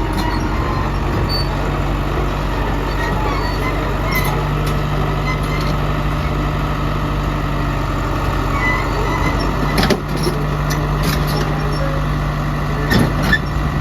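Heavy diesel engine of earthmoving machinery running steadily, its pitch rising slightly about four seconds in, with short knocks about ten seconds in and again near the end.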